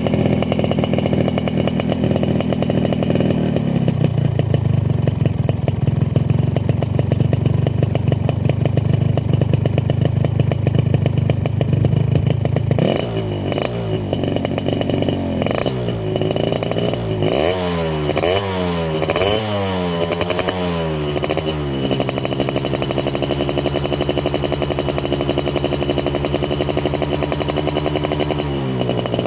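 Yamaha RX-King two-stroke single-cylinder motorcycle engine running through its original stock exhaust. It runs steadily, settling to a lower speed a few seconds in. From about halfway it goes through a run of quick throttle blips that rise and fall in pitch, then drops back to a steady idle.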